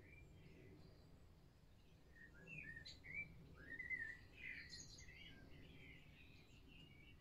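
Faint birdsong: a songbird singing a quick run of short chirps and whistles, busiest a few seconds in, over a low steady background hum.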